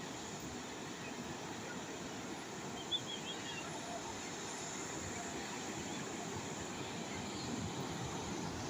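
Calm sea waves washing steadily on the shore, an even rushing noise. About three seconds in there is a brief sharp click and a few faint high chirps.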